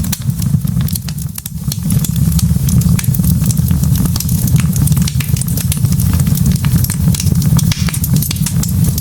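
Log fire burning: a steady low rumble with frequent irregular crackles and sharp pops from the burning wood.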